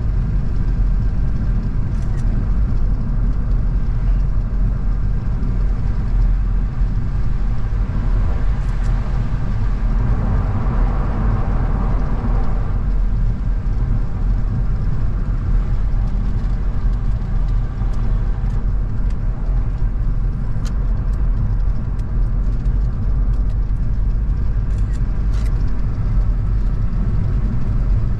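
A car driving along: steady engine and road rumble. There is a swell of louder, higher road noise from about ten to thirteen seconds in, and a few faint clicks.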